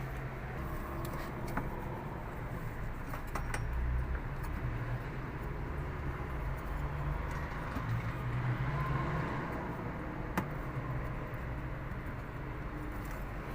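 Steady low background rumble and hum, with a few faint clicks of spin-dryer parts being handled as the nut is refitted.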